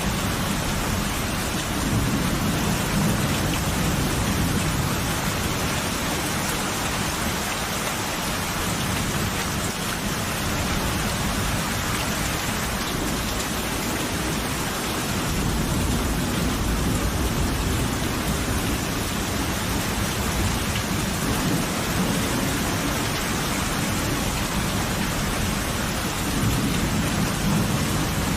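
Steady rain falling, with low rolling thunder rumbling three times: about two seconds in, midway, and near the end.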